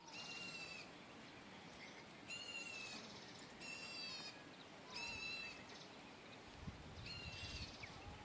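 A bird calling repeatedly: about five short, high-pitched calls, faint and evenly spaced over a steady outdoor background.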